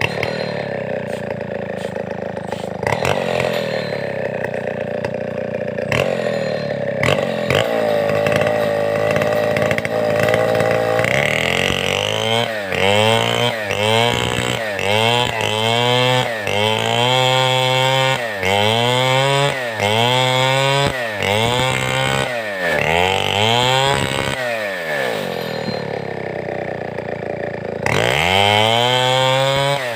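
Large two-stroke chainsaw of the Stihl 070 type cutting timber. It runs steadily under load at first; about midway it starts revving up and down in quick repeated cycles, then climbs back to full speed near the end.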